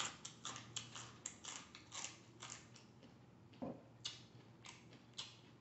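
Raw okra pod being bitten and chewed close to the microphone: crisp crunches about three a second, thinning out after the first three seconds.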